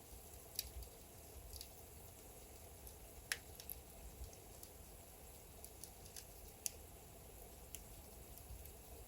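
Logs burning in a fireplace: scattered sharp crackles and pops over a low, steady rumble, the loudest pop about three seconds in.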